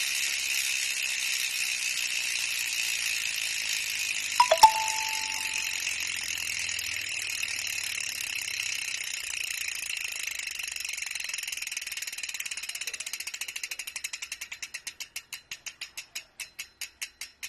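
SpeedOne Soldier 6-pawl freehub buzzing as the wheel freewheels, the pawls clicking fast and steady, then slowing into separate, ever more widely spaced clicks as the wheel winds down and stops near the end. About four and a half seconds in, a short metallic ding is the loudest sound.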